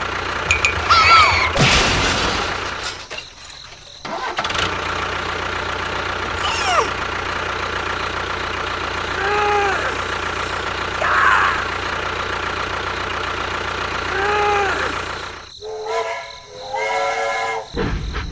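A vehicle engine running steadily, with a few short pitched calls over it and a brief drop-out about four seconds in.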